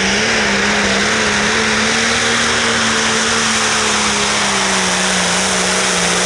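Turbocharged diesel engine of an International Light Pro Stock pulling tractor running at full throttle under load while pulling the sled. It is a loud, steady high-rpm note that wavers slightly, over a heavy hiss.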